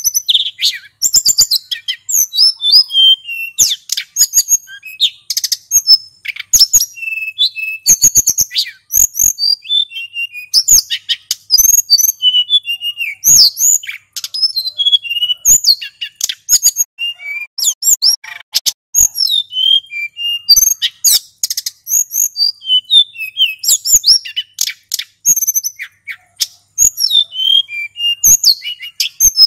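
Male sulingan gunung (hill blue flycatcher) singing without pause: a rapid, varied stream of short whistled notes, slurs and trills, with sharp clicks scattered among them.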